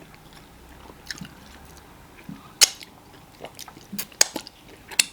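Close-miked chewing and mouth sounds of eating fufu and pepper soup, with a few sharp wet smacks or clicks, the loudest about two and a half seconds in and several more near the end.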